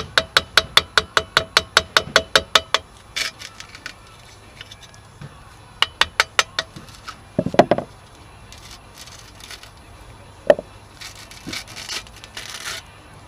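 Hand scraping of the old exhaust gasket and the flange surface on a motorcycle exhaust: a fast run of back-and-forth strokes, about seven a second, for the first few seconds, then scattered scrapes, a couple of short knocks, and more scraping near the end.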